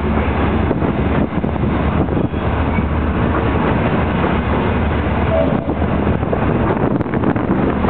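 Loaded container flat wagons of a freight train rolling past close by: a steady rumble of steel wheels on rail with irregular clatter and banging from the wagons.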